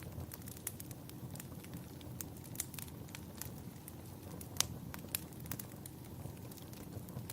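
Wood fire in a fireplace crackling, with sharp irregular pops over a low steady rumble; the loudest pop comes a little over halfway through.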